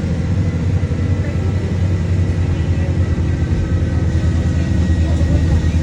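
Passenger train running, a steady low hum and rumble with a faint steady high whine above it.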